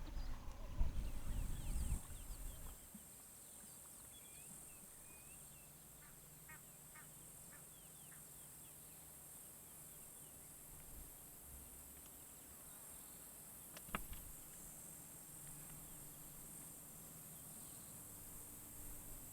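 Wild birds calling in short, scattered chirps over a steady high-pitched insect drone. A loud, rough, low sound fills the first two seconds, and there is a single sharp click about fourteen seconds in.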